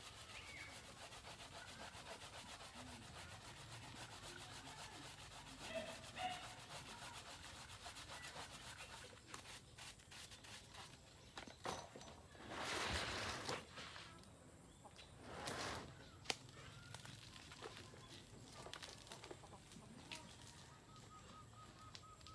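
Chickens clucking in the background, with a few short calls. A little past the middle come two short rushes of hissing noise, the loudest sounds here.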